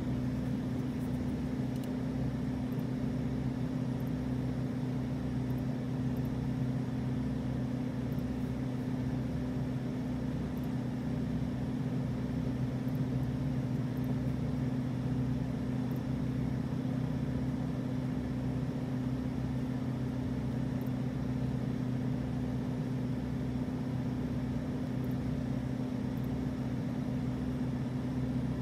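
Audi RS7's twin-turbo V8 running at a steady, unchanging pitch while the car cruises at constant speed, heard from inside the cabin with road noise and a low throb about every second and a half.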